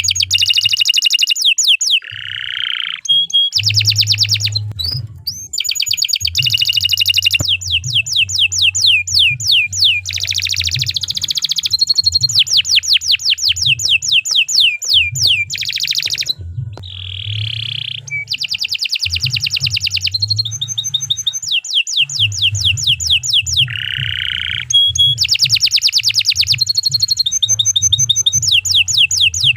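Domestic canary singing a long, continuous song: phrase after phrase of fast repeated notes and rolling trills, changing every second or two with only brief breaks. A low steady hum runs underneath.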